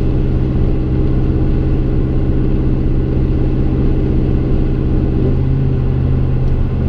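Exhaust of a 2015 Chevy Silverado's 5.3L V8, running through Kooks long-tube headers and a 3-inch Gibson M.W.A muffler with no resonator, heard inside the cab: a steady low engine note that shifts about five seconds in.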